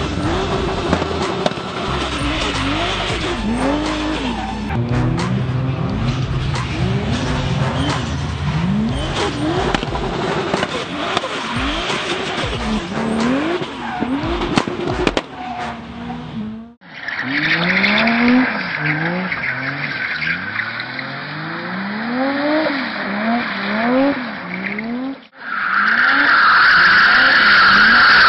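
Hyundai Veloster's swapped 2JZ-GTE turbo straight-six revving hard, its pitch climbing and dropping again and again as it drifts. About 17 s in the sound cuts to another car revving the same way, and in the last few seconds the drifting Ford Scorpio's tyres squeal loudly over its engine.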